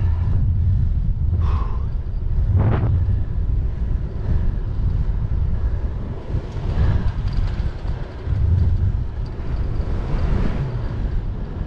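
Wind buffeting a bike-mounted microphone while riding, a heavy low rumble that swells and dips.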